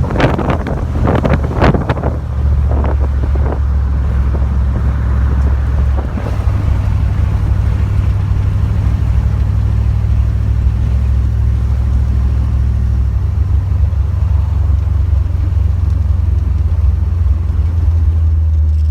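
Car driving: a steady low engine and road drone with some wind noise. A few sharp knocks come in the first few seconds, and the engine note shifts about six seconds in.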